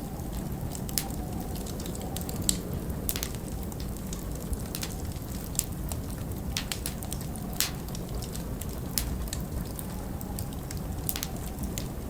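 Log fire crackling, with sharp pops at irregular intervals, over a steady low rumble of storm wind.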